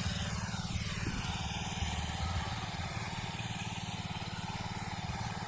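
Small petrol engine of a power weeder running steadily under load while tilling soil, with an even, rapid pulsing.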